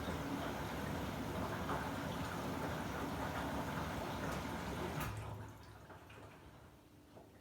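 Samsung WW90J5475FX/AH washing machine taking in water for its rinse, a steady rush of water into the drum. It cuts off with a click about five seconds in, leaving a faint low hum.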